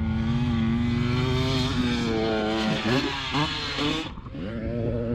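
Off-road vehicle engine running under throttle, its pitch dipping and rising about three seconds in, with a brief let-off of the throttle about four seconds in before it picks up again.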